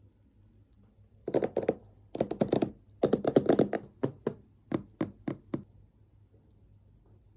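Quick runs of tapping and knocking on a hard object, dense for about three seconds, then slowing to a handful of single taps.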